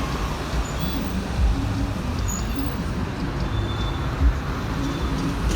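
Heavy road traffic on a city avenue: buses and other vehicles driving past with a steady low engine rumble and a brief louder surge about four seconds in.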